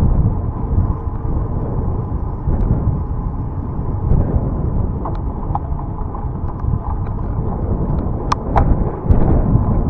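Wind buffeting the microphone of a moving bicycle, a steady low rumble, with a few sharp clicks or rattles near the end.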